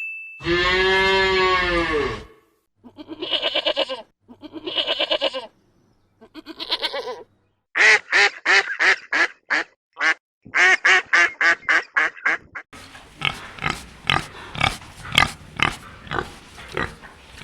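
Farm animals calling in succession: one long drawn-out pitched call, then several short pulsed calls, then long runs of rapid repeated calls at about three to four a second.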